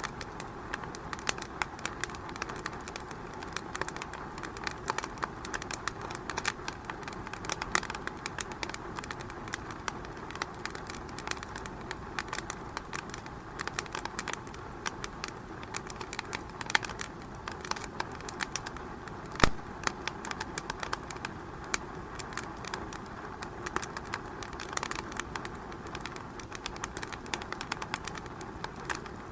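Wood fire crackling in a fireplace, with irregular small snaps over a steady hiss and one loud pop about two-thirds of the way through.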